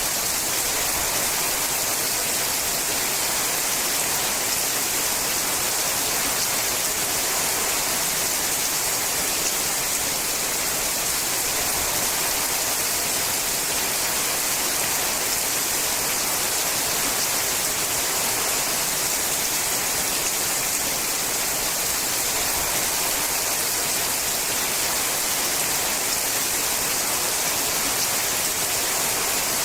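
Steady rain falling on a sheet-metal roof: a continuous, even hiss of drops with no breaks.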